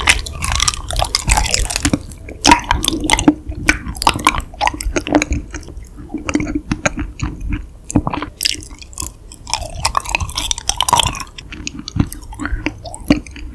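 Raw honeycomb being bitten and chewed, with a dense run of quick, irregular mouth smacks and clicks.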